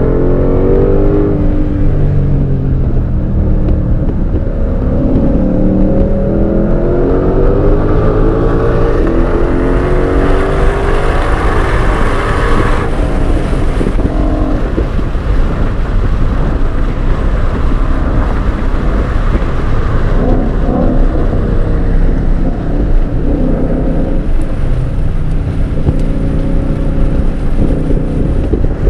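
Supercharged 5.2-litre V8 of a 2022 Shelby GT500, heard from inside the cabin, pulling hard through the gears, its pitch rising in several sweeps between upshifts. About thirteen seconds in the driver lifts off and the car slows, leaving lower engine noise with wind and tyre noise.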